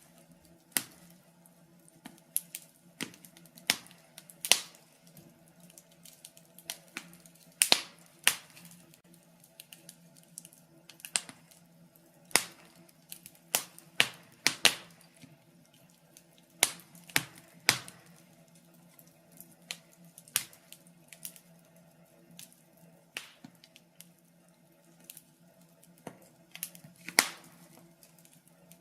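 Wood fire crackling in a fireplace: irregular sharp pops and snaps, sometimes several a second, over a faint steady hum.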